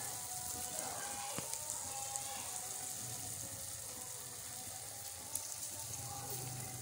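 Chicken jalfrezi sizzling gently in a pan, a steady hiss with a few small ticks.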